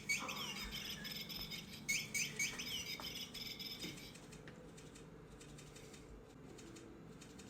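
Interactive flapping-bird cat toy chirping and fluttering its wings, in two bursts of quick repeated tweets with a fast rattle in the first three seconds. After that only faint light clicks.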